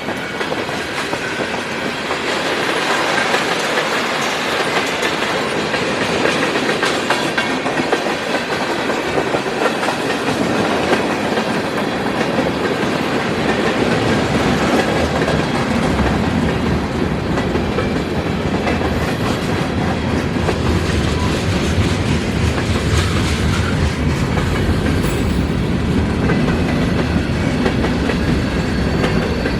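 Freight train cars rolling past, their wheels clicking and clattering over the rail joints in a steady run. A deeper rumble builds about halfway through.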